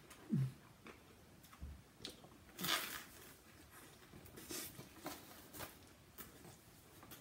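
Close-up eating sounds: a person chewing a crunchy fried soft-shell crab and Flaming Hot Cheetos sandwich, with scattered small mouth clicks and a louder crunch about two and a half seconds in.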